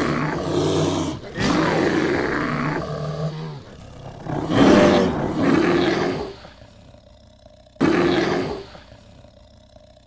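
Bear growling: four long calls of a second or two each with short gaps between them, the third the loudest.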